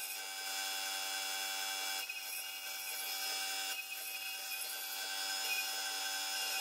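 CNC router spindle whining at a steady high pitch while its bit cuts wood, the cutting noise shifting briefly about two seconds in and again just before four seconds.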